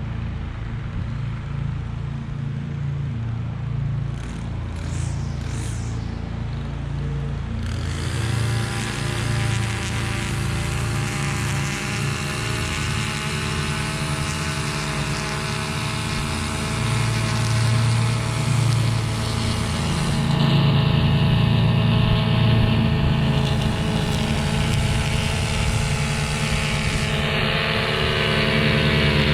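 Husqvarna V554 zero-turn stand-on mower's engine running with a steady low hum. About eight seconds in its pitch rises to a higher, steady whine, and a hiss joins.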